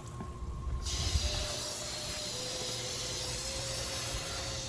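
Water spraying steadily from a hose nozzle onto the car, a hiss that starts abruptly about a second in.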